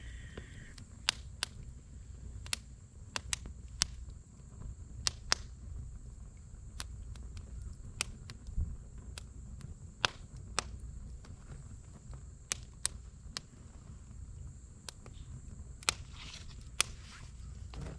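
Wood campfire crackling: sharp, irregular pops and snaps every second or so over a low, steady rumble of burning.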